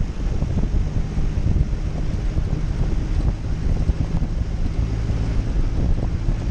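Jeep Cherokee engine running steadily, with wind noise on the microphone.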